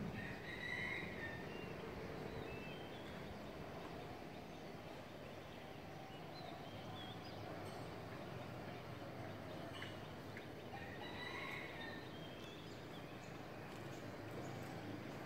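Birds calling with scattered short chirps, a couple of fuller calls about a second in and again near eleven seconds, over a faint steady outdoor background hum.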